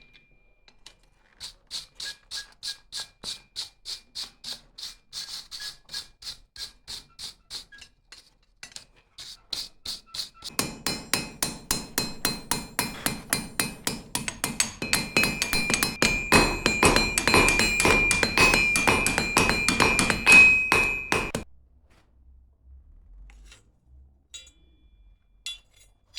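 Hammer striking hot steel on an anvil during forging. First comes a run of light, regular blows at about three a second with a thin metallic ring. Then come louder, faster blows with a strong ringing, which stop suddenly, leaving a few faint taps.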